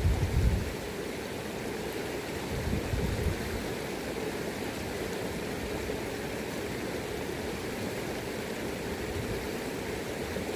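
River current flowing steadily, with low gusts of wind on the microphone at the start and about three seconds in.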